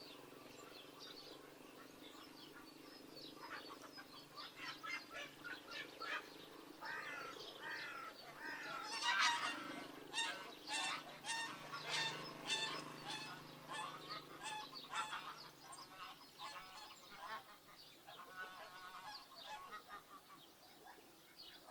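Domestic geese honking, many quick calls overlapping, starting a few seconds in and loudest near the middle before thinning out.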